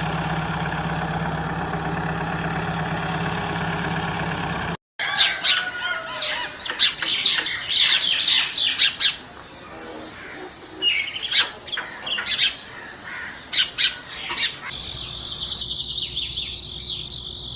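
A steady motor hum that cuts off abruptly about five seconds in. Birds then chirp in quick, sharp, repeated calls for about ten seconds. Near the end comes a steady high-pitched trill.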